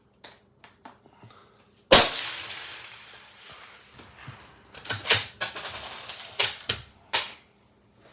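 A single loud rifle shot about two seconds in, ringing out and fading over a second or more, followed a few seconds later by a quick run of shorter, sharp cracks and clacks.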